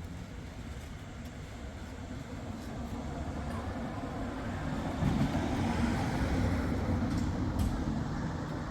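A motor vehicle driving past on the street: a low rumble that grows louder for about five seconds, then fades.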